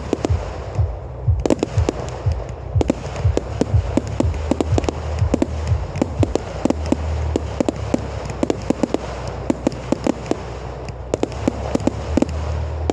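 Fireworks going off in quick succession: many sharp bangs and crackles, close together and irregular, over a low rumble.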